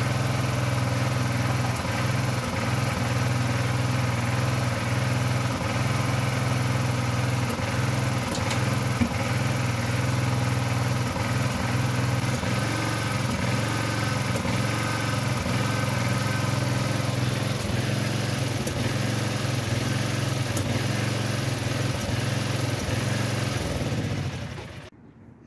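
Small garden-tractor engine of an old Craftsman loader tractor running steadily, then shut off near the end.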